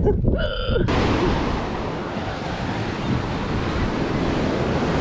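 Ocean surf washing onto a beach, a steady rushing noise with wind buffeting the microphone, starting abruptly about a second in.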